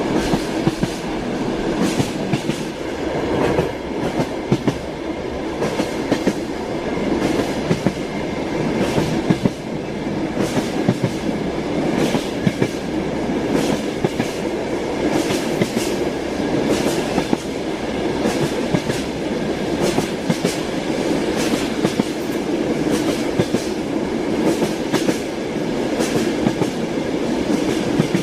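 Railway carriage in motion: its wheels clatter over rail joints as many sharp, uneven clacks over a steady rumble of the running gear, with a faint steady whine.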